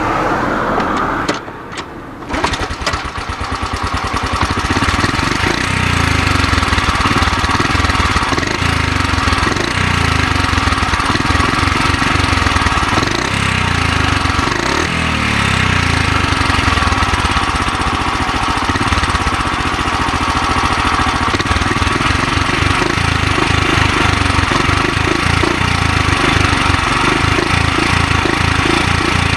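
Honda Super Cub 50's small single-cylinder four-stroke engine catching about two seconds in, then idling steadily, heard at the exhaust.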